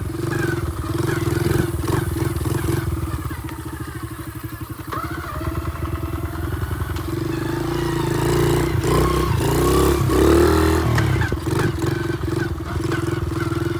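Honda XR70 pit bike's small single-cylinder four-stroke engine running as it is ridden. It putters at low revs around the middle, then revs up and down a few times near the end.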